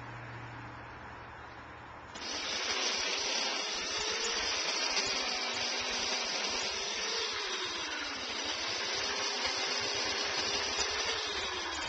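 Chainsaw idling, then opened up to full throttle about two seconds in and held there cutting into a dead pine, a loud steady noise whose pitch sags and recovers as the bar takes load.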